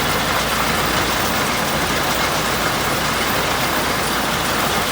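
Truck engine running steadily under a constant rushing noise.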